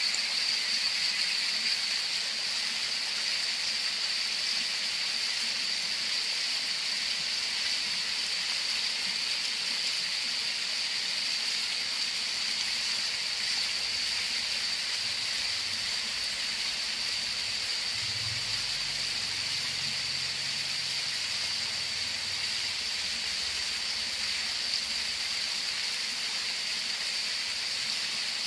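Waterfall: water pouring and flowing in a steady, unbroken rushing hiss.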